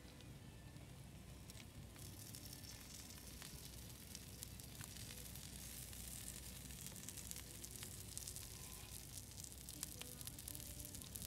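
Meat frying on a hot griddle: a dense, crackling sizzle that grows louder about two seconds in.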